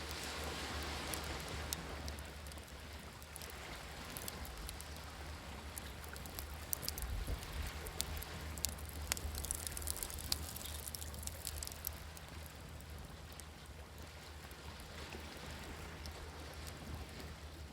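A wood campfire crackling, with sharp pops that come thickest in the middle, over the steady wash of sea waves that swells and eases.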